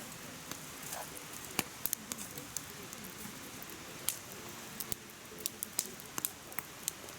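Firewood burning in a mesh fire pit, crackling with irregular sharp pops and snaps over a steady hiss of flame.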